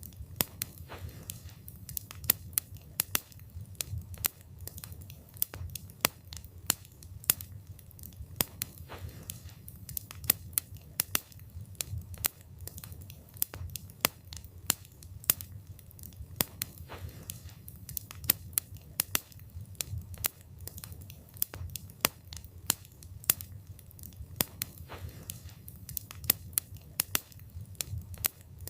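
Wood fire burning, with sharp, irregular crackles and pops from the burning wood, several a second, over a low steady rumble of the flames.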